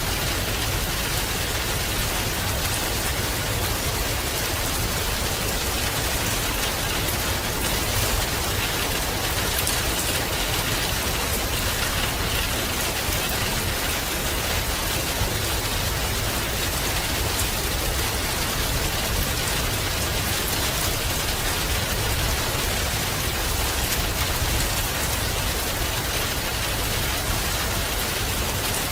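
Steady heavy rain falling on a surface, a dense even hiss with a low rumble underneath and no breaks.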